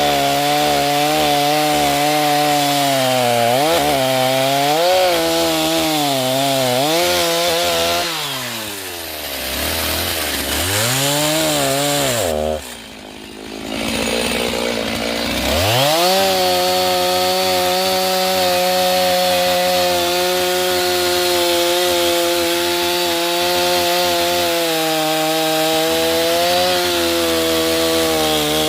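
Chainsaw engine running at high revs while cutting wood, its pitch sagging and recovering several times under load. About halfway through it drops to idle for a few seconds, then goes back up to full throttle and holds steady.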